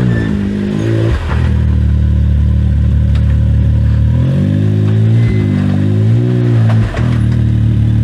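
Side-by-side UTV engine running, its revs dropping near the start, climbing again about four seconds in and falling back just before seven seconds.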